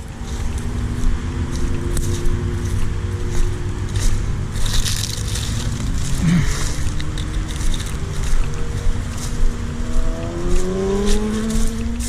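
Highway traffic passing: a steady engine and tyre hum, with one vehicle's engine rising in pitch near the end.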